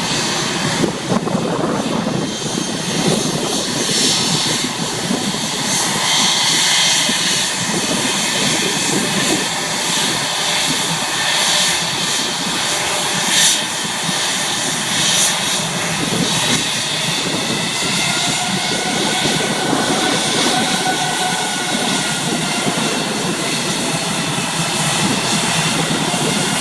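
Airbus A321 jet engines running at taxi power: a steady, loud rush of engine noise, with a faint whine coming in during the second half.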